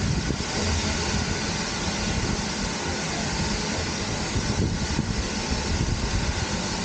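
Steady mechanical rumble and hiss of a heritage railway train.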